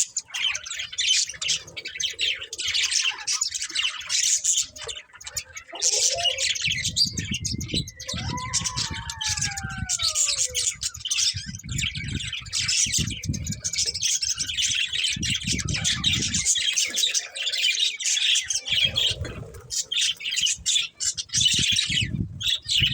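A flock of budgerigars chattering and chirping continuously in quick, overlapping calls and squawks. Bursts of low rumbling noise come and go in the middle and near the end.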